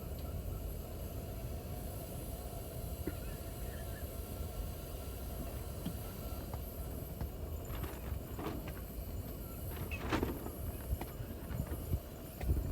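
Strong wind buffeting the microphone in a steady low rumble, with a few short knocks and rustles about eight to ten seconds in.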